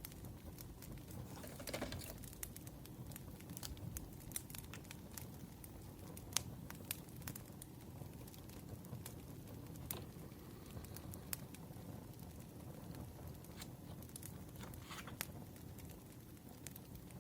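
Wood fire crackling with scattered irregular pops over a low steady rumble. A soft rustle comes about two seconds in and again near the end.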